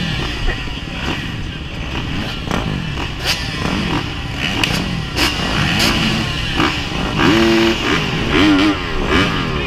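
Motocross dirt bike engines running and revving over a constant rush of wind-like noise, with frequent sharp knocks. Near the end the engine pitch rises and falls quickly several times.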